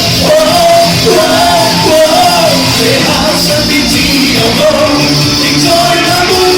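Music: a voice singing a bending melody over full rock-pop band accompaniment.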